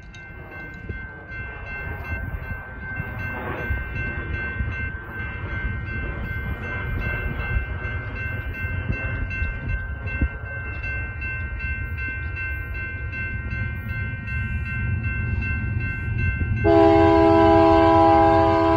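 BNSF coal train approaching behind a GE Evolution-series (GEVO) diesel locomotive, a steady low rumble that grows louder. Near the end the locomotive horn sounds one loud chord lasting about two seconds.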